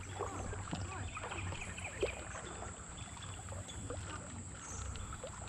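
Creek ambience: moving water and a low wind rumble, with a few faint knocks, the clearest about two seconds in.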